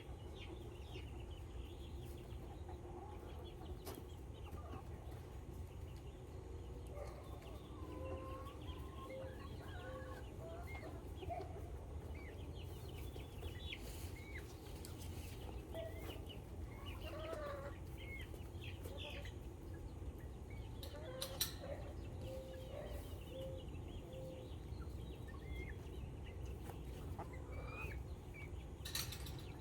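A flock of backyard chickens clucking and calling: many short, scattered calls over a steady low rumble, with a few sharp clicks.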